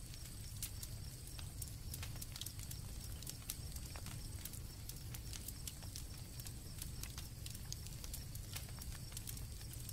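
Campfire crackling, with irregular sharp pops over a low steady rumble of the flames. Crickets chirp in a steady high-pitched drone behind it.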